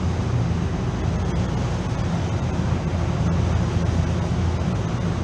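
Refrigeration machinery running: a steady low hum under an even rushing noise.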